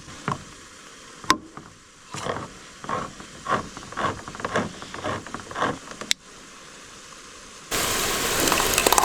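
A can of tomatoes being opened with a run of short repeated clicks and a sharp click, then, near the end, a sudden loud sizzle and hiss as crushed tomatoes hit the hot pot of browned ground beef.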